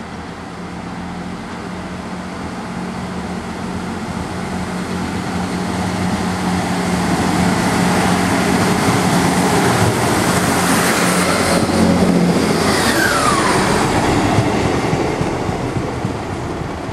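Class 158 diesel multiple unit running past on the rail with its underfloor diesel engine humming. The sound grows louder to a peak about two-thirds of the way through, a whine drops in pitch as the unit goes by, and then it fades as the train moves away.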